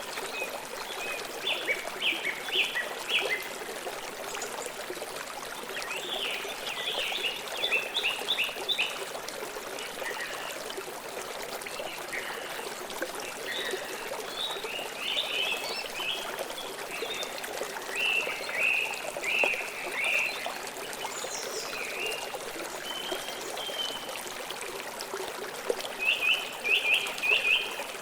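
Flowing stream trickling steadily, with short bursts of rapid high-pitched bird chirps every few seconds.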